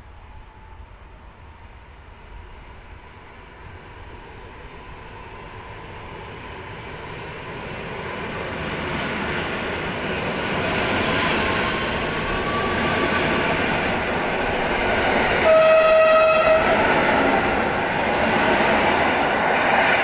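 EN57 electric multiple unit approaching and running past through the station, its running noise growing steadily louder as it nears. About three-quarters of the way through it sounds one horn blast, a steady tone about a second long that is the loudest thing heard.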